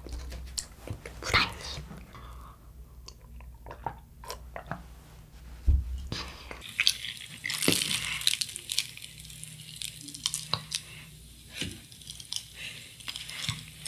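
Close-up chewing and biting of a Kodano long cheese stick, a fried breaded cheese stick, with small crunches of the crust. A single dull thump comes a little before six seconds in.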